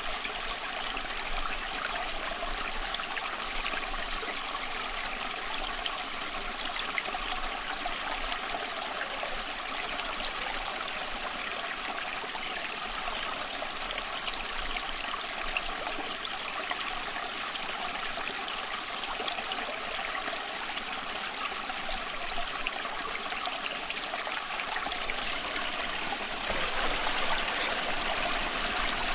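A small stream running with a steady rush of water, a little louder for the last few seconds.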